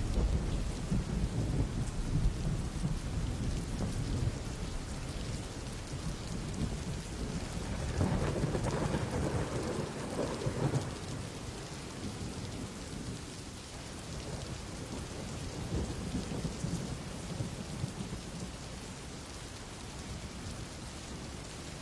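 Steady rain with low rumbling thunder, swelling about eight seconds in, then growing gradually quieter.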